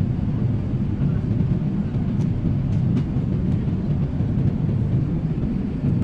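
Airliner cabin noise during the climb after takeoff: a steady low rumble of engines and airflow, with a few faint clicks.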